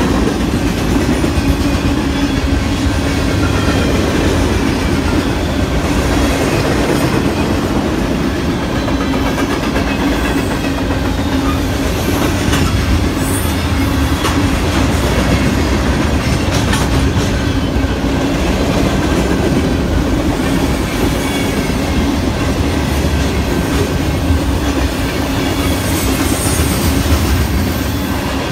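Freight train's cars (tank cars, boxcars and covered hoppers) rolling past close by: a steady, loud rumble of steel wheels on rail with a constant hum, and scattered clicks as wheels cross rail joints.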